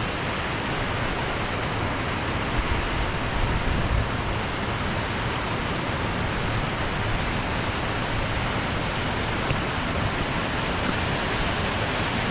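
Waterfall splashing down over rock into pools, a steady loud rush of falling water.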